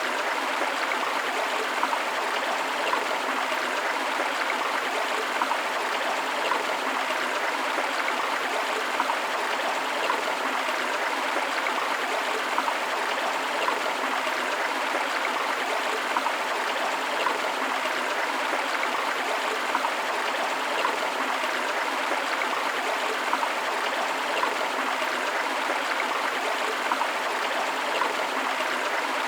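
Flowing river water rushing and splashing steadily, a constant even hiss with small bubbling flickers.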